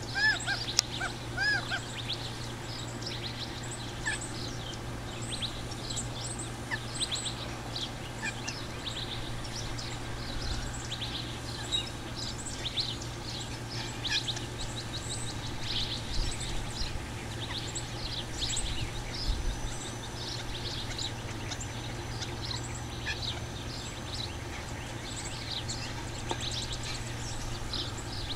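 Birds chirping: many short, high calls one after another, with a few lower, curving calls in the first second or two.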